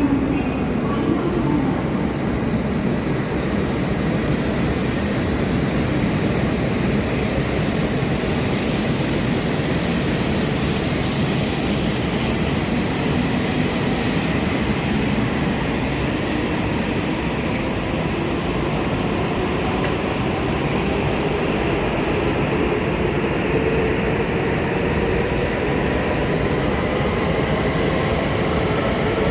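Shinkansen train running, a steady rushing rumble of wheels and air with a faint whine that slowly rises in pitch over the last several seconds.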